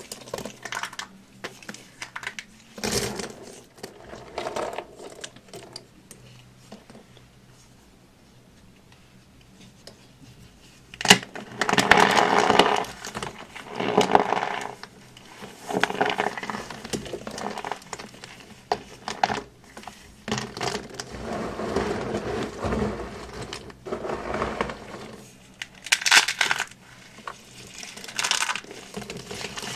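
Dry, brittle material being crunched and crumbled close to the microphone in irregular bursts, with a lull of a few seconds before a sharp click about eleven seconds in, after which the crunching comes thicker and steadier.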